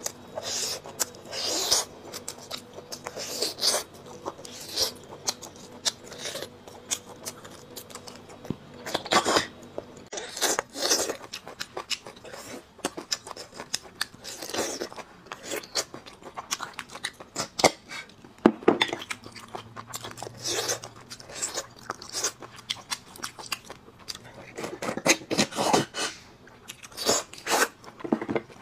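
Close-miked mouth sounds of a person eating braised bone marrow: irregular chewing, biting and crunching, heard as a quick, uneven run of sharp clicks and short crunches.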